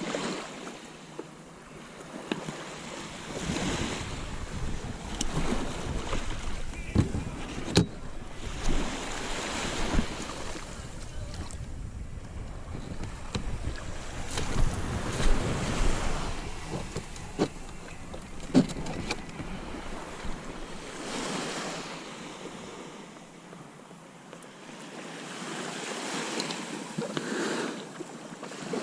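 Small waves washing and lapping around a kayak, swelling and fading every few seconds, with wind on the microphone and a few sharp knocks against the hull.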